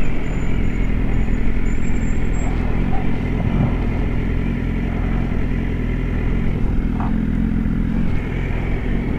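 BMW S1000RR inline-four engine running at a steady speed while the bike is ridden, with no big revs or gear changes.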